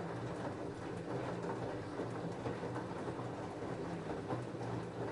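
LG F10A8HDS5 front-loading washing machine running its cotton cycle with a load of jeans: a steady motor hum with a constant busy clatter and crackle from the turning drum and the load inside it.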